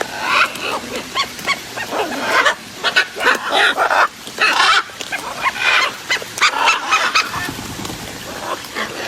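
Parrots squawking: a steady run of short, harsh calls, one after another.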